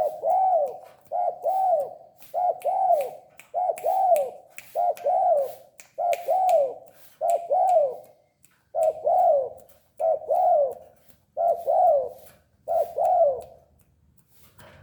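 Spotted dove (tekukur) cooing in a steady series of about eleven coos, roughly one a second. Each coo is a pair of rising-and-falling notes, with a slightly longer pause about two-thirds of the way through.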